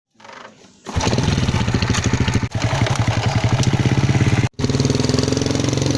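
A small engine runs with rapid, even firing pulses, coming in loud about a second in after a faint start. It cuts out briefly past the middle, then carries on.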